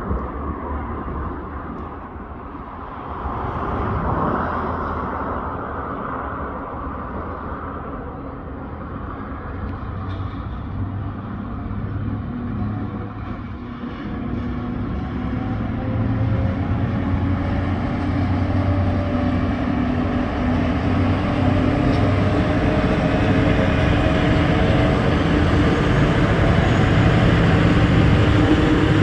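Diesel-electric freight locomotives running, their engines a steady low drone that grows steadily louder from about halfway through as the train approaches.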